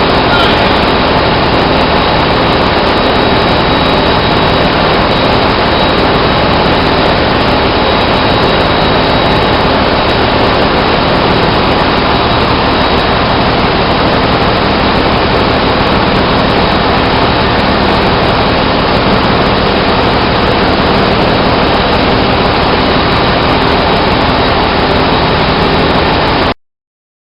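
Loud, steady machinery noise of a ship's engine room: an even din with a low hum and a thin high whine. It cuts out completely for about a second near the end.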